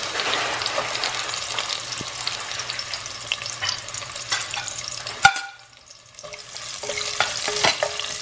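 Chopped onion sizzling in hot oil in a stainless steel pan, crackling steadily. About five seconds in there is a sharp knock and a brief lull. Then the sizzle comes back as a wooden spatula stirs the onion, with small clicks against the pan.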